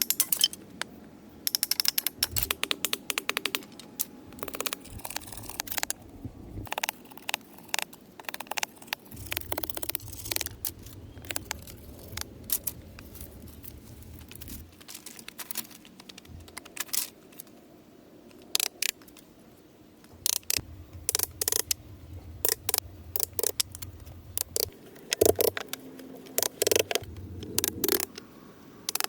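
Many short, irregular clicks and knocks, like small objects being handled, with a low hum in stretches.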